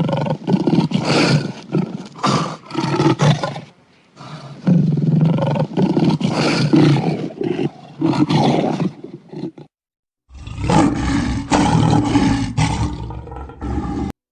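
A large animal roaring, as a recorded sound effect, in three long bouts of several seconds each with short breaks between them.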